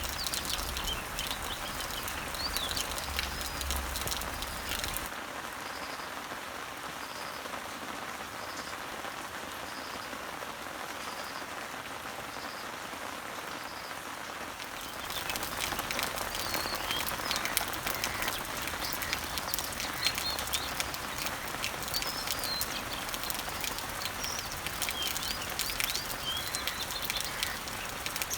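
Rain falling on leaves and trees, a steady patter with many small drips, with birds chirping now and then above it. The rain grows louder and drippier about halfway through, and in the middle a short high note repeats about once a second.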